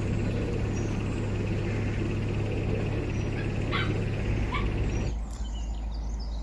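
Narrowboat engine running steadily under way, with a bird calling twice in short rising notes. About five seconds in, the engine noise cuts out abruptly, leaving a quieter scene with faint birdsong.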